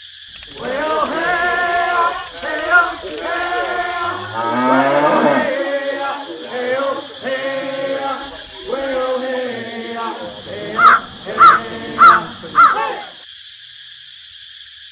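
Cartoon-style voice sound effects: a string of pitched, wavering vocal sounds with a slow upward glide partway through, ending in four short, loud rising squeaks.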